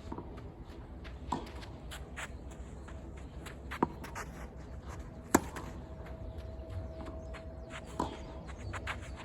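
Tennis ball knocks during play: four sharp, separate hits of ball on racket or court, the loudest a little past the middle, over steady low background noise.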